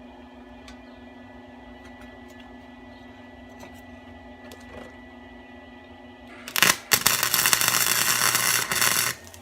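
Steady low shop hum, then, about six and a half seconds in, an electric welding arc crackling loudly for about two and a half seconds as a weld is run on the steel exhaust pipe, with a brief break near its start.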